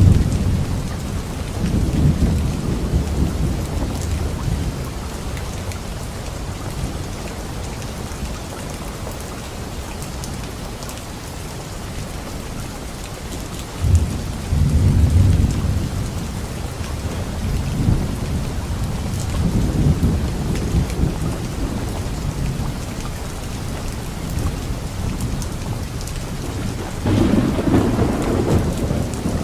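Steady rain falling on leaves with repeated rolls of low thunder. About halfway through a sudden crack sets off a rumble lasting a couple of seconds, and another louder roll comes near the end.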